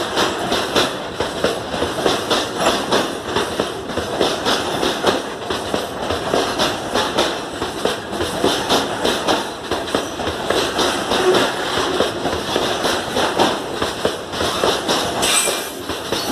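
Loaded freight hopper wagons rolling past at close range: steel wheels clattering rhythmically over the rail joints over a continuous rushing rumble.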